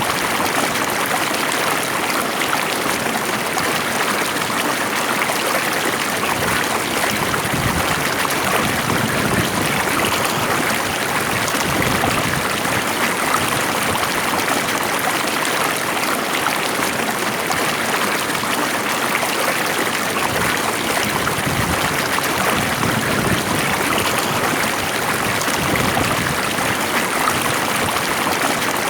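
Stream water flowing and babbling steadily, an even rushing burble with no breaks.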